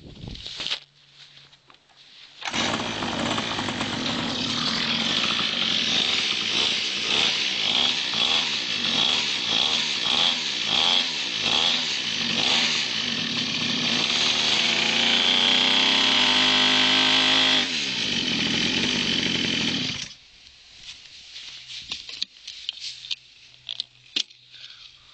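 Pocket bike's small two-stroke engine with its aftermarket exhaust, revved in quick repeated blips, then held at high revs before the pitch drops. It comes in suddenly a couple of seconds in and cuts off abruptly about three-quarters of the way through, leaving only faint clicks.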